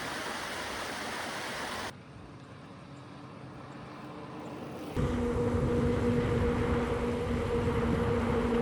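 A steady rushing noise that cuts off suddenly about two seconds in. About five seconds in, a steady motor hum with a low rumble starts and holds.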